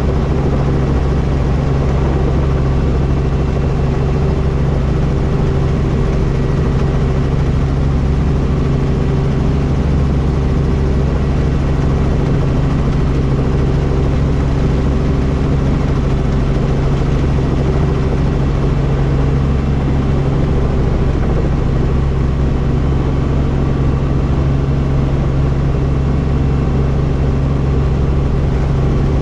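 Helicopter engine and rotor running steadily, a constant loud drone with a few steady humming tones and no change in pitch or level.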